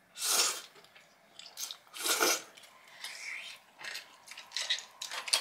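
Close-up eating sounds: chewing and biting, with two louder mouth noises about half a second and two seconds in and softer ones between.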